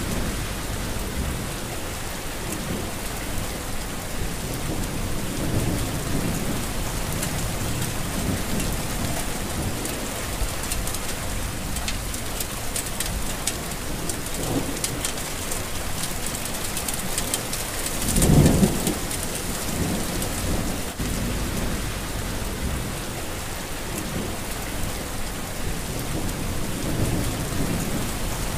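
Heavy rain falling steadily, with low rumbles of thunder; the loudest rumble swells about two-thirds of the way through.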